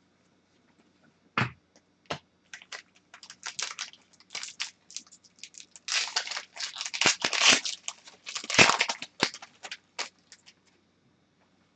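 Hockey trading cards and their packaging being handled: a run of crinkling, rustling and small clicks, busiest in the middle stretch.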